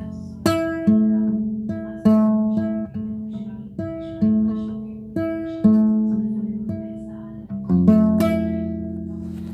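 Guitar playing slowly: single notes and chords plucked one after another, each ringing out and fading before the next.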